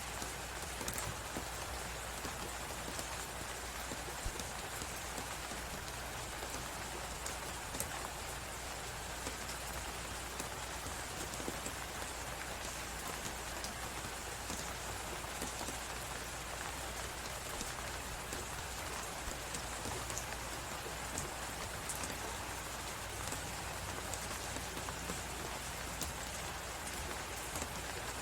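Crackling fireplace: a steady stream of small pops and crackles over an even hiss.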